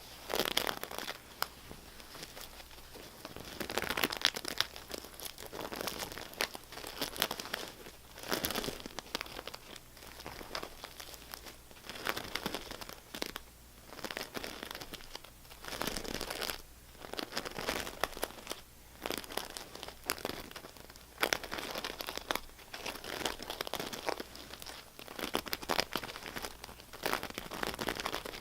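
Close-up scratching and crinkling on a crinkly material, in irregular bursts of a second or two with short pauses between them and sharp little clicks mixed in.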